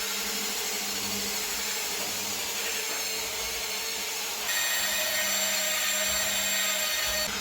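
Electric machine polisher running steadily, buffing freshly wet-flatted car lacquer. About halfway through it gets a little louder and a higher whine comes in.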